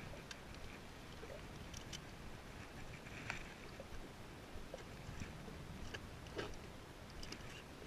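Water lapping against a kayak hull, with scattered small clicks and knocks.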